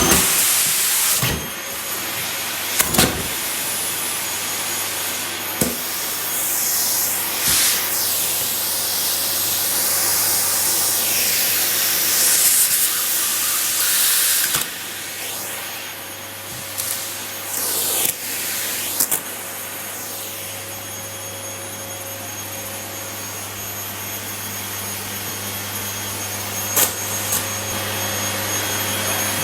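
Vacuum cleaner running steadily with a high motor whine, its rushing suction swelling and fading several times. Several short knocks are heard along the way.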